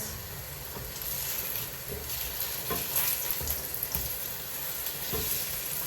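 Cottage cheese pancakes (syrniki) sizzling steadily as they fry in hot oil in a pan, with a few faint knocks.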